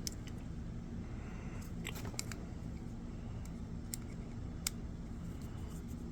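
A few small, sharp clicks and light scrapes of hands handling the washer motor's carbon brush holder and its small screws, over a steady low hum.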